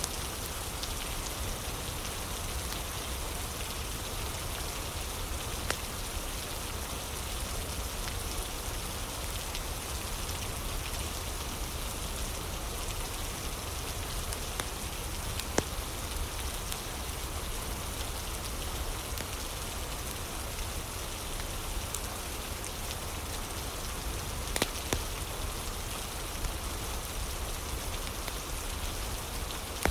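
Steady rain ambience, an even hiss of falling rain, with a few sharp pops from a crackling fire scattered through it.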